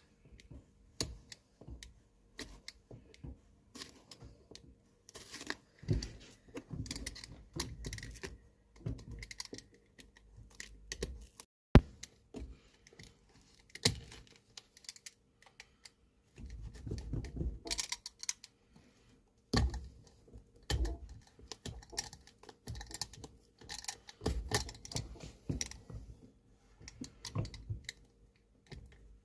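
A knife cutting down a boot's heavily glued sole and the sole being prised away: irregular scraping, crunching and clicking in bursts, with one sharp loud snap about halfway through.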